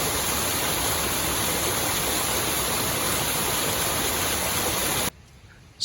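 Waterfall rushing: a steady, even sound of falling water that cuts off suddenly about five seconds in.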